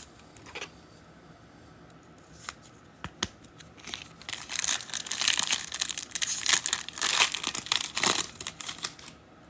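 Foil trading-card pack wrapper being torn open and crinkled: a few light clicks first, then about four seconds of crinkling and tearing starting about four seconds in.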